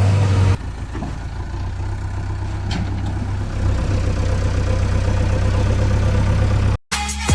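JCB 3DX backhoe loader's four-cylinder diesel engine running steadily at idle, dropping in level a little over half a second in. Near the end it cuts off and music starts.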